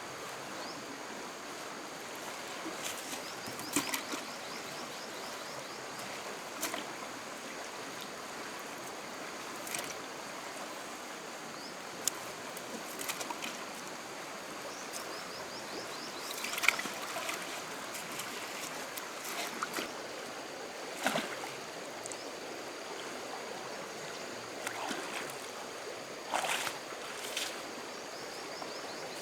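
Steady rush of flowing stream water, with several brief sharp splashes or knocks scattered through it.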